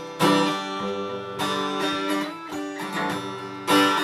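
Acoustic guitar strumming chords, a fresh strum roughly every second, each left to ring.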